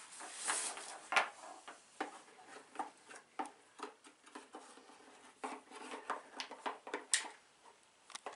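Irregular light clicks, taps and knocks of small objects being handled in a small room, with a dozen or so sharper ones scattered through.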